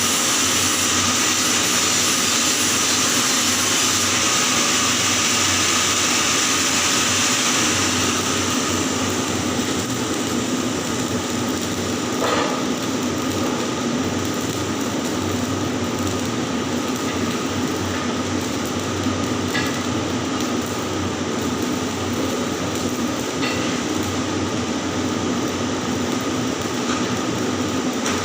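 Arc welding on a pipe joint: a steady hiss whose high end thins out about eight seconds in, with a few sharp ticks later on.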